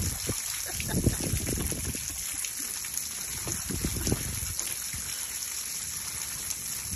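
Water trickling steadily, from a hose filling a small bathing pool for geese.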